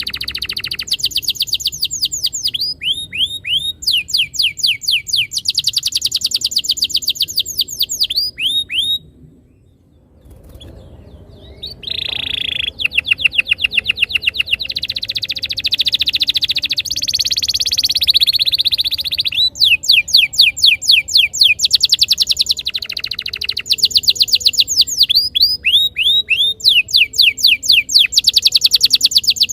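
Domestic canary singing long rolling trills of rapid repeated high notes. The song breaks off for about two seconds a third of the way in, then resumes.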